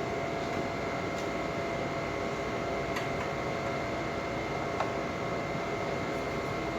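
Steady background hiss with a thin, high, steady whine, and a few faint ticks spread through it.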